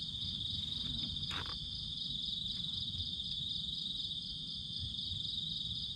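Crickets chirping in a steady night chorus, a continuous high pulsing trill, over a low steady rumble. A brief rustle about a second and a half in.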